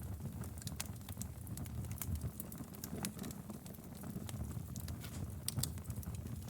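Wood fire burning in a fireplace: a steady low rumble of flames with frequent sharp, irregular crackles and pops from the burning firewood.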